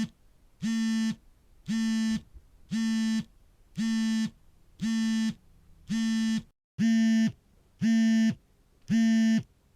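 Smartphone vibrating for an incoming call: its vibration motor buzzes in pulses about half a second long, roughly one a second. A brief silent break comes about two-thirds through, and the pulses after it are slightly louder.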